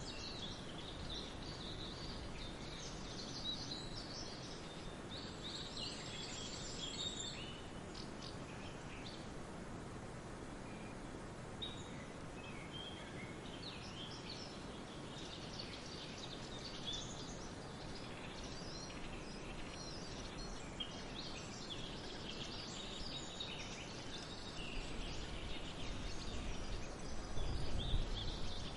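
Several birds chirping and calling in short, scattered phrases over a steady outdoor background hiss. A low rumble swells near the end.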